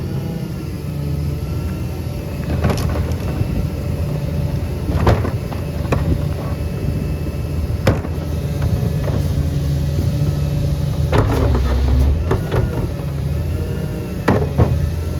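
A CNG Peterbilt garbage truck with a Leach body runs steadily with a faint whine, and several sharp clanks and bangs come a few seconds apart.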